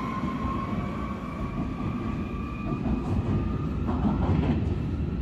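Electric commuter train pulling away from an underground platform: a steady rail rumble with a faint thin whine, and a few knocks of wheels over the track about four seconds in.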